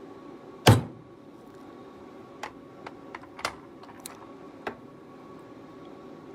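One sharp hammer strike on a steel letter stamp about a second in, impressing a letter into a metal collar stay blank. It is followed by several lighter clicks and taps of metal stamps being picked up and set in place.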